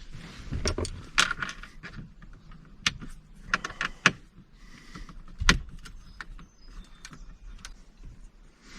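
Small metal hardware and tools being handled: a series of sharp clicks, clinks and knocks with light rattling, the loudest a little after a second in and again about five and a half seconds in.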